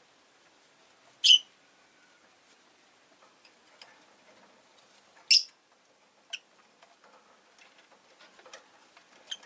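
Rosy-faced lovebird giving short, sharp, high chirps: two loud ones about four seconds apart, then two softer ones, with faint clicks in between.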